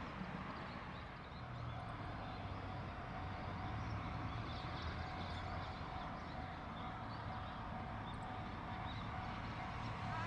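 Distant electric freight train rumbling steadily along the rails, with a faint steady whine that comes in about two seconds in.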